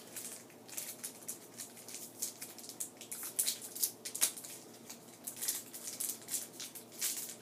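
Thin plastic wrapper crinkling and crackling as it is picked and peeled off a small toy credit card, in an irregular run of crackles.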